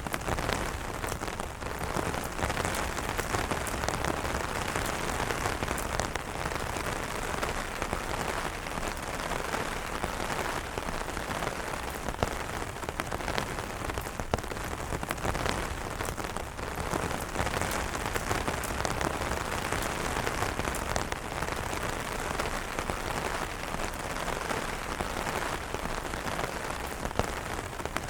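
Steady rain falling on umbrella fabric: an even hiss dotted with many separate drop ticks.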